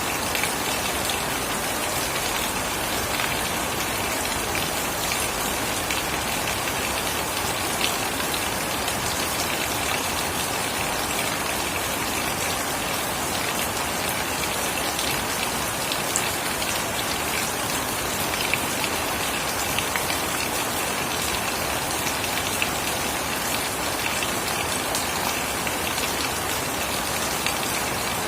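Steady rain falling on surfaces, with scattered close drips and patters over an even hiss.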